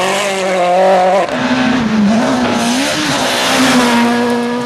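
Rally car engine running hard at high revs, its pitch jumping up about a second in, wavering, then held steady as the car drives the stage.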